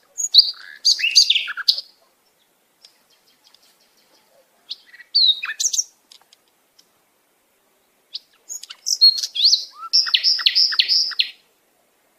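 A bird singing in three bursts of quick, varied chirps and whistles, the last ending in a run of about five rapid repeated notes.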